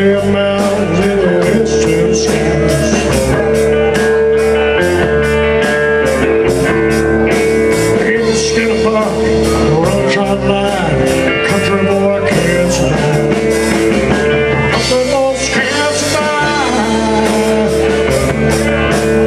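Live country-rock band playing an instrumental stretch of a song: guitar lead over bass and a steady drum beat.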